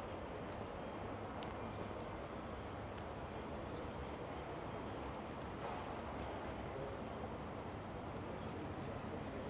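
A steady, unbroken high-pitched insect trill, such as a cricket's, over a low background rumble.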